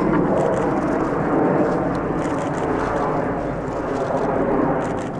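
BAE Hawk T1 jets of a display formation flying by, a steady rushing jet noise that eases slightly near the end.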